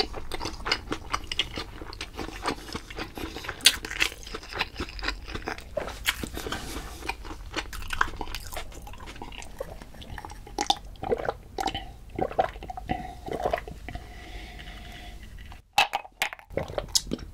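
Close-miked chewing and biting of food: a steady run of short crunches and wet mouth clicks.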